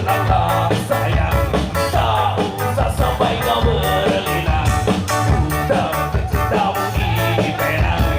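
A ska band playing live: an upbeat ska tune with a drum kit keeping a steady beat under bass and melody.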